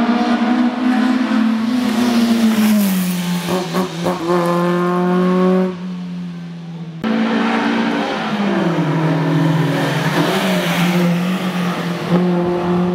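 Classic racing car engine running hard under load. Its note drops in pitch and holds, eases off briefly about six seconds in, then picks up again, with a little tyre squeal.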